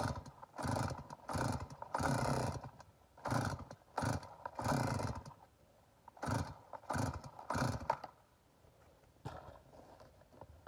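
Stihl MS 290 chainsaw being pull-started: about ten quick yanks on the recoil starter cord in three runs, plus a fainter one near the end. The engine turns over without catching, which the owner suspects may be flooding.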